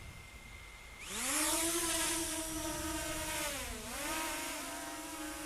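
JJRC X9 Heron quadcopter's motors spinning up about a second in with a rising whine, then running steadily as the drone lifts off, the pitch dipping briefly and recovering. A steady high beep-like tone sounds before the motors start and stops as they spin up.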